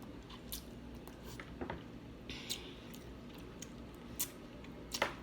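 Quiet chewing and mouth sounds while eating, close to the microphone, with a few sharp clicks and ticks scattered through.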